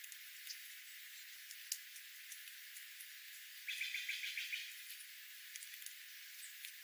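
A small bird giving a quick run of chirps for about a second, a little past the middle, over a steady high hiss, with a few faint scattered ticks.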